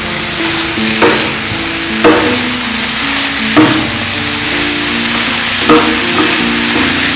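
Devilled young jackfruit (polos) sizzling in a non-stick frying pan as it is stirred with a wooden spatula, with four sharp scrapes of the spatula against the pan. A simple instrumental melody plays underneath.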